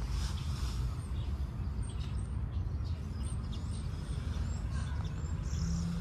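Birds chirping in short, high calls several times over a steady low rumble.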